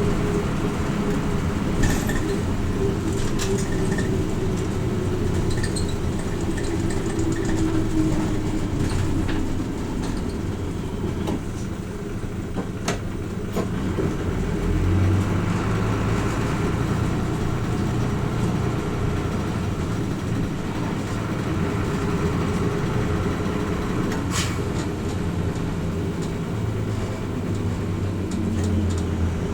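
Interior running sound of a Hino Rainbow RJ midibus's diesel engine and drivetrain, heard from inside the cabin as the bus drives along. The engine note rises and falls with the driving, over steady road noise, with a few sharp rattling clicks.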